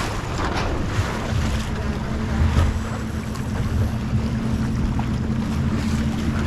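Wind buffeting the head-mounted camera's microphone over water rushing past a small sailboat's hull, with a few brief splashy surges in the first half. A steady low hum joins about halfway through.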